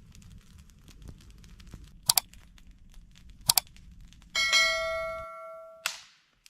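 Two sharp clicks, then a metal object struck and ringing like a bell for about a second and a half before it is stopped with a click.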